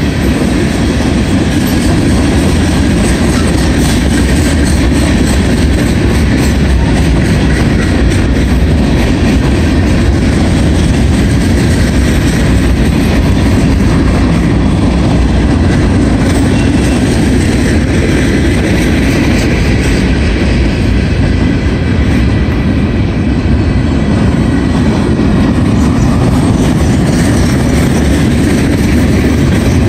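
Freight cars of a CSX mixed manifest train rolling past: a loud, steady rumble of steel wheels on the rails.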